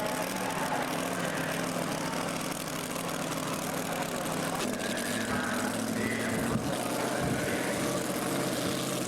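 Engine of a pulling tractor running steadily at a low pitch, with its note shifting a little about halfway through and again near the end.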